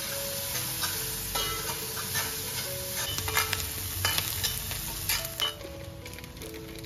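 Chopped onion and green chilli sizzling in a black cast-iron kadai while a steel spatula stirs and scrapes it, giving scattered clicks of metal on iron that thin out near the end. Soft background music plays underneath.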